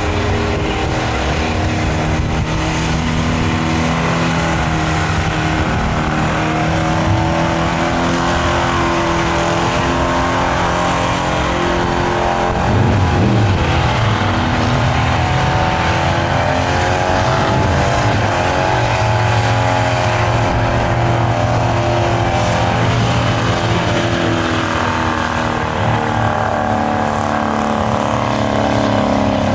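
Mercedes 380 SEL's V8 held at high revs during a burnout, with the rear tyres spinning and squealing. The revs dip and climb back a couple of times midway.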